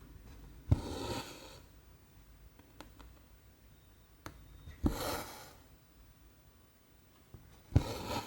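Cross-stitch needle and cotton thread pulled through 14-count canvas: three pulls a few seconds apart, each a sharp tick followed by about half a second of scratchy noise as the thread draws through. Light needle clicks fall between them.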